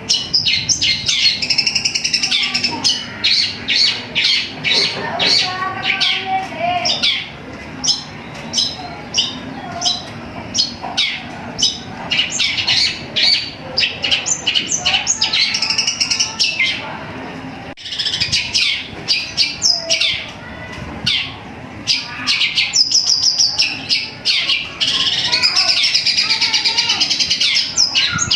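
Long-tailed shrike (cendet) singing a fast, unbroken run of rapid chirps and trills, mixing in mimicked calls such as a tree sparrow's chirping. The song cuts off sharply for a moment about two-thirds of the way through.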